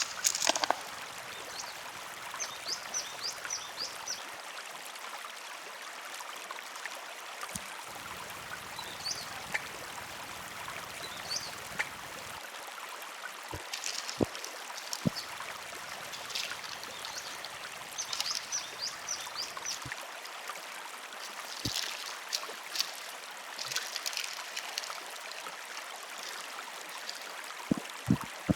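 Steady rush of river water flowing, with scattered light clicks and knocks and a few bursts of short high chirps.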